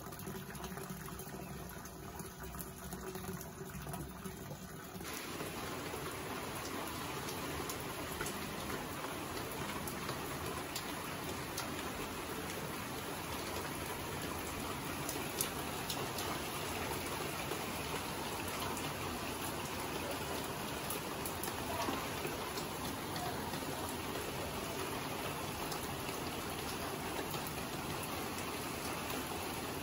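Heavy rain pouring steadily as a dense, even hiss, with a few sharper ticks of drops striking close by. It comes in abruptly about five seconds in, after a quieter stretch.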